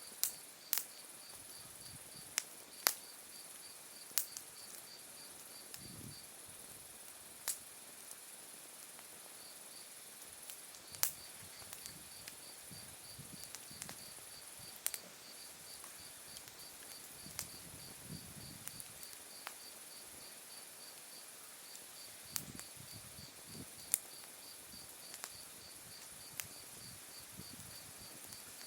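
Wood fire crackling with scattered sharp pops from the burning logs, over steady autumn insect song: a continuous high trill and a second insect chirping about four times a second, which stops for a few seconds partway through.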